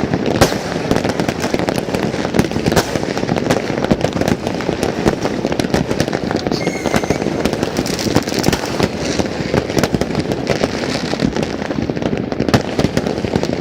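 Many fireworks and firecrackers going off at once: a dense, continuous crackle of overlapping pops and bangs with no let-up.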